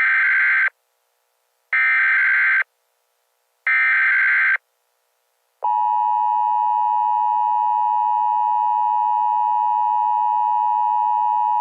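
Emergency Alert System header: three short bursts of digital data tones about a second apart, then a steady, unbroken EAS attention tone. Together they announce the start of an emergency alert message.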